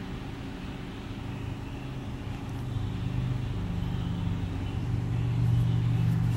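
BMW X6 xDrive35i's turbocharged inline-six engine idling, heard from inside the cabin as a steady low hum that grows louder over the second half.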